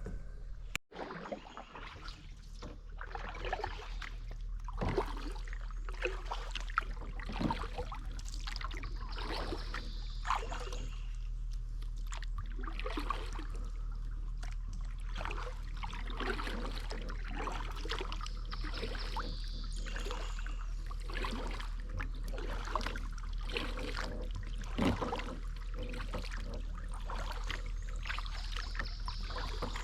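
Kayak paddle strokes dipping into river water, with splashes and water trickling off the paddle blades at an irregular pace.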